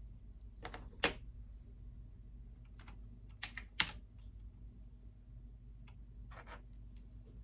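Scattered keystrokes on a computer keyboard, a few taps in small groups with pauses between, the sharpest about a second in and just before four seconds, over a steady low hum.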